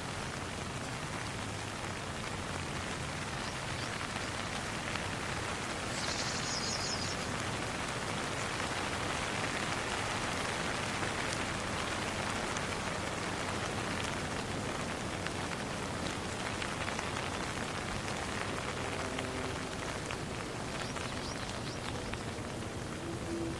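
Steady rain falling on a pond: an even hiss with fine drop patter. A short, high chirping sound comes about six seconds in, and faint low tones come in near the end.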